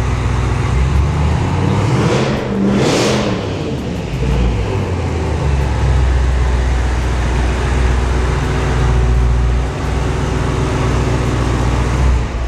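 Twin-turbocharged Dodge Challenger SRT Demon HEMI V8 with a loud exhaust, revved once about two seconds in with a burst of hiss, then running steadily at a deep idle. It has none of the stock Hellcat supercharger whine.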